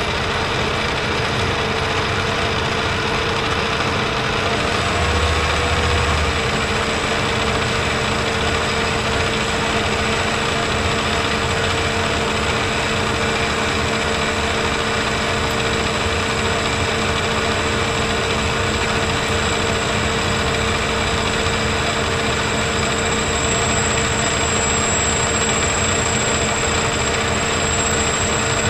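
Metal lathe running at about 912 RPM under power feed, taking a light finishing cut on a steel bushing: a steady machine hum with a constant whine.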